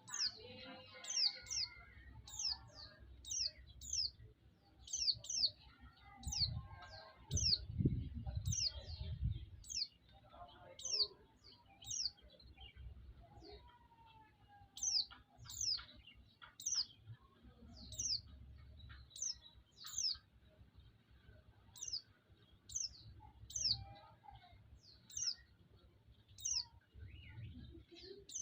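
White-eye (pleci) calling with a long series of short, high chirps that each slide downward, often in quick pairs, about one or two a second: a call used to lure pleci and rouse them to sing. A low rumble runs underneath for a few seconds near the middle.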